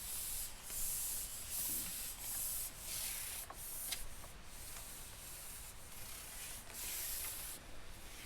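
Repeated rustling, rubbing hiss in bursts of about a second each, with a couple of light clicks about three and a half to four seconds in.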